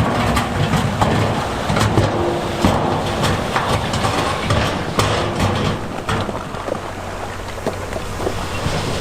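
Heavy diesel earthmoving machinery running steadily, with a low engine hum under scattered knocks and clanks.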